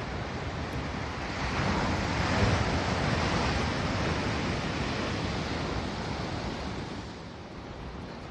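Ocean surf: a wave swells and breaks about two seconds in, then washes back and fades near the end, with some wind on the microphone.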